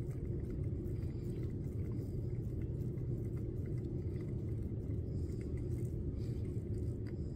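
Steady low background rumble, with faint light clicks and scrapes of a stick stirring glittered epoxy resin in a cup.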